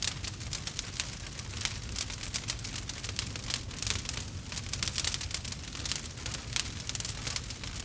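Wood campfire crackling, with many quick, irregular pops and snaps over a low steady rumble of the burning fire.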